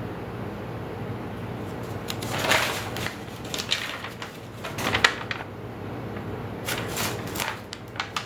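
Knocks and rattles of grill parts being handled during assembly, in irregular bunches of clatter spread over several seconds.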